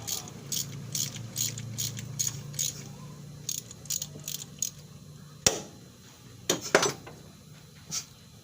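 Metal ratchet clicking in a steady rhythm of about three strokes a second, with a sharp metallic knock about five and a half seconds in and another a second later.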